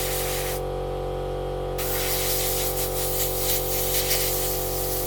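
Compressed-air blow gun hissing as it blows dust out of an engine air filter: a short blast at the start, a pause of about a second, then a longer continuous blast that wavers as the nozzle moves over the filter. A steady hum runs underneath.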